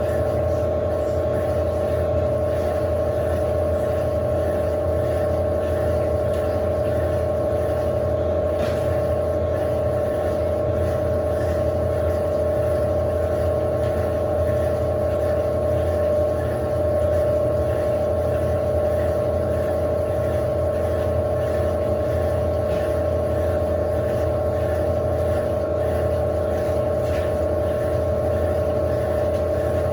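Electrolux LAC16 top-loading washing machine running steadily with a constant motor whine, as in its final spin shortly before the cycle ends.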